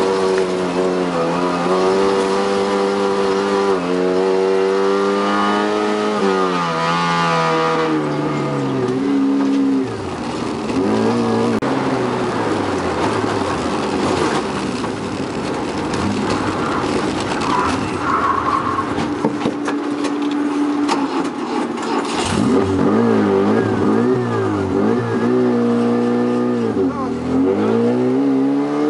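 Rally car engine heard from inside the car at speed on a gravel road, climbing in pitch and dropping back at each gear change, several times over, with a steady rumble of tyres on gravel.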